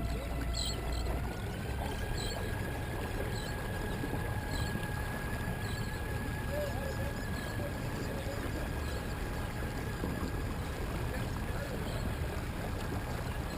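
Torqeedo Ultralight electric outboard on a kayak running with a steady thin whine. Its pitch steps up about a second and a half in as the motor speeds up, then holds, over a low rush of water and wind.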